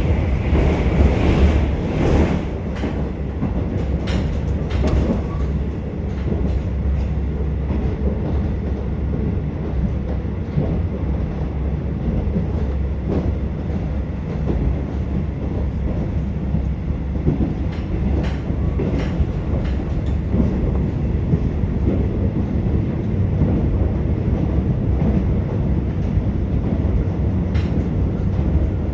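Inside a KiHa 47 diesel railcar running at speed: a steady low diesel drone under wheel and rail rumble. A few sharp clacks come from the wheels over rail joints, two close together a little after 18 s.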